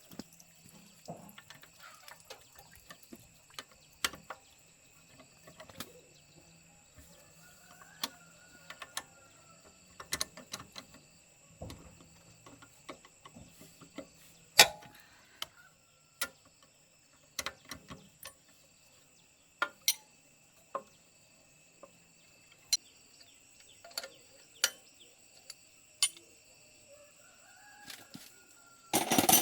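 Scattered sharp clinks and knocks of hand tools on metal parts at irregular intervals, with a chicken clucking a few times in the background.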